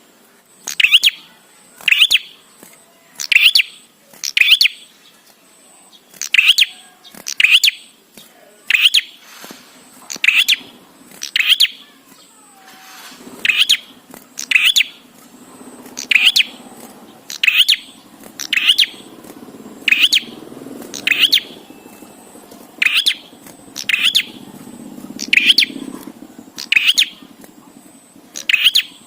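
A prinia (prenjak) calling the same short, sharp chirp over and over, about once a second, each chirp dropping quickly in pitch. A faint low hum runs beneath it.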